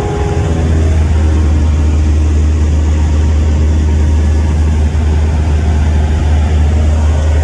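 Cessna light aircraft's piston engine and propeller droning steadily, heard from inside the cockpit.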